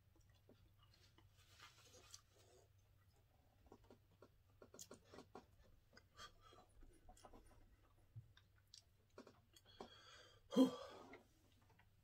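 Close-mic'd eating sounds as a man chews chicken wings: faint chewing and mouth clicks, then one short, louder vocal noise about ten and a half seconds in.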